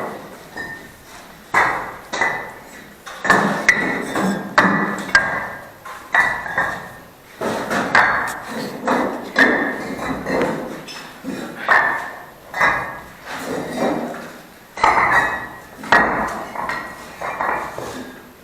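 Repeated ringing knocks of a metal bricklaying tool striking bricks, irregular, about one every second or so, each with a short metallic ring.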